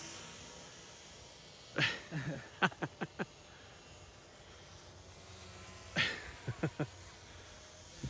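A bird calling twice, about four seconds apart, each call a long falling note followed by a quick run of three or four short falling notes.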